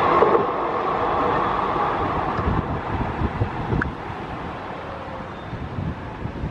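Rolling noise of a passenger train's coaches on the rails, fading steadily as the tail of the train moves away, with low buffeting of wind on the microphone in the second half.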